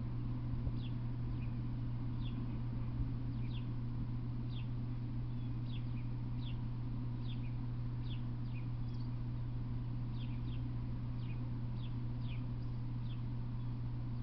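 A bird calling over and over with short, high chirps that fall in pitch, about one a second, over a steady low hum.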